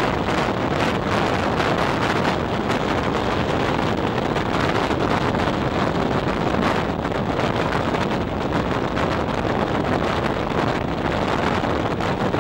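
Steady wind rush over the microphone at the open window of a moving regional train, with the train's running noise underneath.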